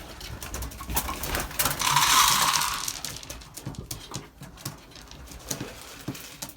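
Racing pigeons moving about in a loft: a short rustling burst about two seconds in, with scattered light clicks and taps before and after it.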